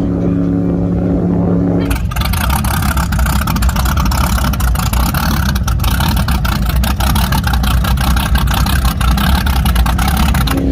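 A loud engine running hard, with a heavy rumble and a crackle. It cuts in abruptly about two seconds in, replacing a steady droning tone.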